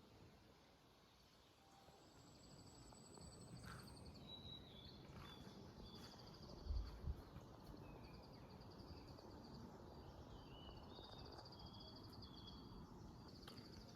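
Faint birdsong: small birds giving short repeated trills and chirps, with a brief thin high buzz early on and a short low thump about halfway through.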